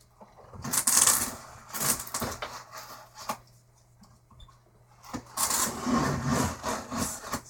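Cardboard shipping box being handled and opened: two spells of rustling and scraping, the second starting about five seconds in.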